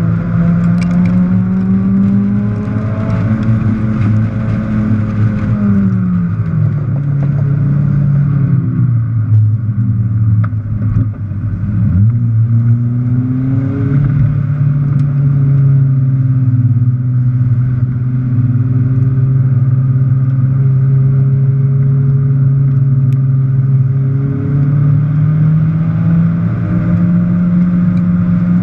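Car engine running hard at speed, its pitch falling over several seconds as the car slows, then climbing back, holding steady for a long stretch and rising again near the end, with road and wind noise underneath.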